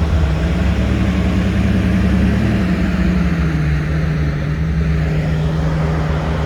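An engine running steadily with a deep rumble, its pitch easing down slightly about two and a half seconds in and then holding.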